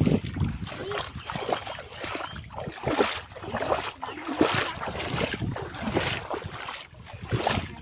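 Rhythmic splashing and sloshing of floodwater, about one or two surges a second, as something moves steadily through the water.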